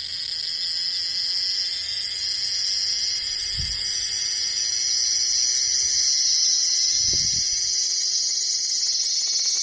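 A cicada singing close up: a loud, steady, shrill buzz that swells gradually louder.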